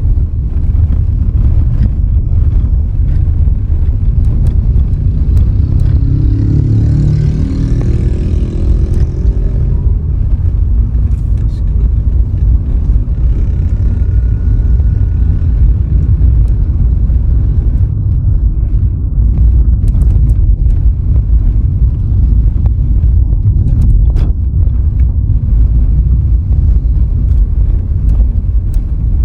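Steady loud low rumble of road and wind noise from a car being driven. Between about six and ten seconds in, a louder engine sound rises and fades.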